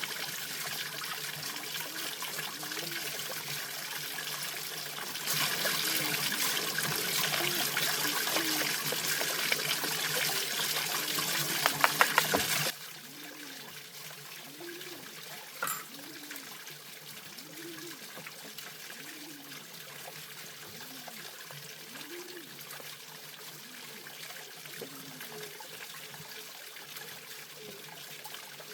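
Water trickling and running, with a few sharp knocks, then dropping abruptly to a softer trickle about halfway through. A low, rising-and-falling call repeats roughly every second and a half underneath.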